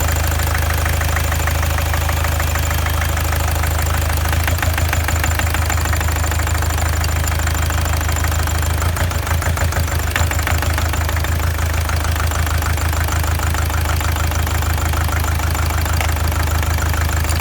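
BMW E46 2.0-litre four-cylinder diesel idling with a steady, dense clatter, running shortly after being started for the first time in a while.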